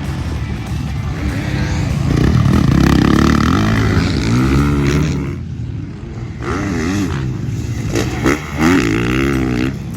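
Motocross bike engine revving up and down as it is ridden, loudest about two seconds in, easing off briefly around the middle, then picking up again with quick throttle blips near the end.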